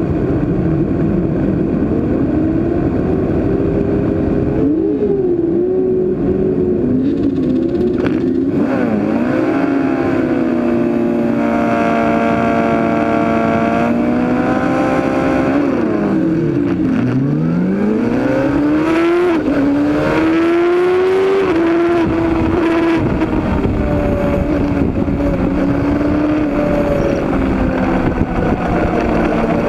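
Road-racing motorcycle engines revving hard through the gears, several overlapping, rising and dropping in pitch with each shift. A long held high-revving note comes in the middle, then a sharp fall in pitch and a quick climb again.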